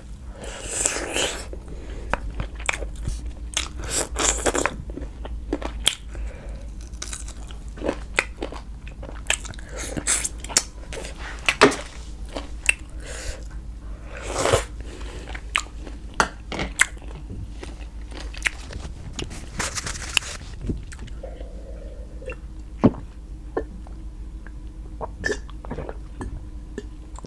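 Close-miked eating: biting into and chewing tandoori chicken, with irregular wet mouth clicks and crunches throughout.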